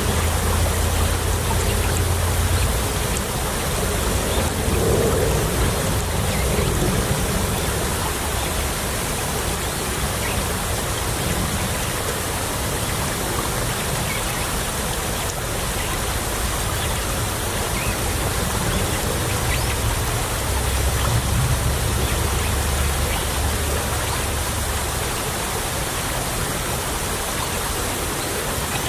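Small stream trickling steadily, an even rush of running water. A low rumble swells underneath near the start and again about twenty seconds in.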